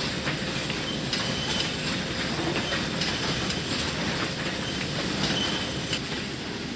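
Sawmill machinery running, a steady clattering rattle with scattered clicks and several short high squeaks.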